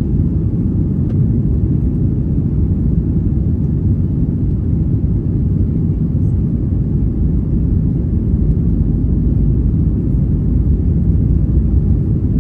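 Steady low rumble inside the cabin of a Boeing 737 MAX 8 jet airliner: its CFM LEAP-1B engines and airflow, heard from a passenger seat.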